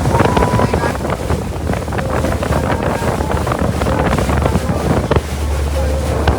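Motorboat ride: a boat engine running steadily under heavy wind noise on the microphone.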